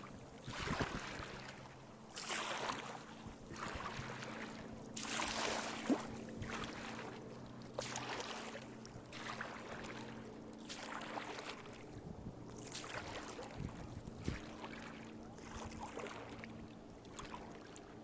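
Paddle strokes dipping and pulling through lake water from a small paddled boat, a regular swish about every second to second and a half.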